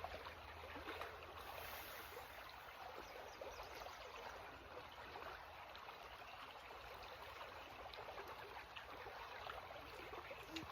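Faint, steady rush of a river's rapids flowing.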